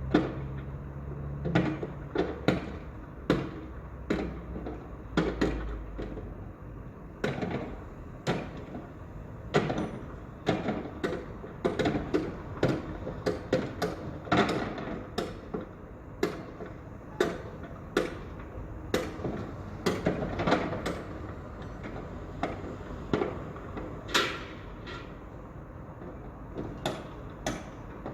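Construction-site work sounds: a steady stream of irregular sharp knocks and bangs, about one or two a second, like hammering on building materials. A low hum under them fades out about six seconds in.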